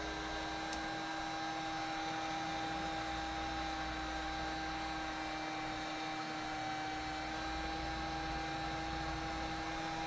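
Heat gun running steadily, a blower hum with a few steady whining pitches, warming the tablet so the adhesive under the broken screen softens.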